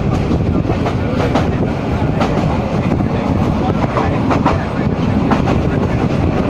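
Train running along the track: a steady, loud rumble of the wheels and carriages, with a sharp clack from the wheels every second or so.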